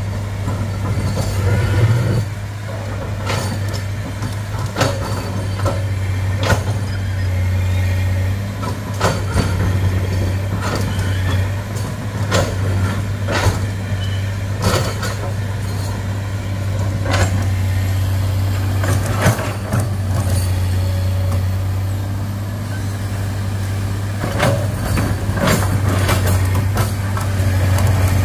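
Heavy diesel engine running steadily, with many sharp clanks and knocks, a dozen or more, scattered throughout.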